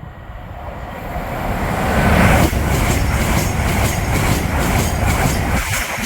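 LNER Azuma high-speed train passing through at speed: a rushing noise that builds over about two seconds, then holds loud with a rapid, even clatter of wheels as the carriages go by.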